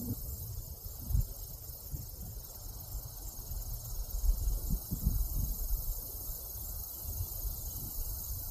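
Wind buffeting the microphone in uneven low gusts, over a steady high chirring of insects.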